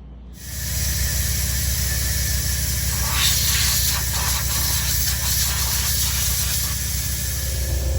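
2008 Chevy Silverado 1500 engine running at a steady speed, its exhaust heard up close: rapid, even pulsing with a hiss over it, turning loud about half a second in.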